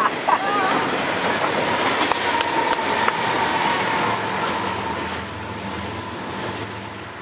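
Double-stack container freight train rolling past at speed with a steady rush and clatter of wheels on rail. Its rear diesel locomotive goes by close with an engine drone and a thin steady whine, and the sound fades as the train pulls away near the end.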